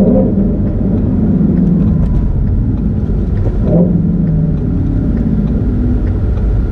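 Shelby GT350's 5.2-litre flat-plane-crank V8 running steadily while the car is driven on the road, its note changing pitch briefly near the start and again about four seconds in.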